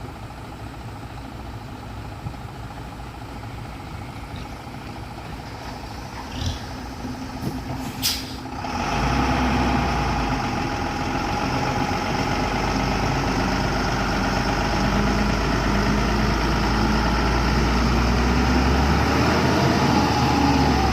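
Heavy truck engine running, with a short hiss of air about eight seconds in; the engine then grows much louder and keeps running steadily.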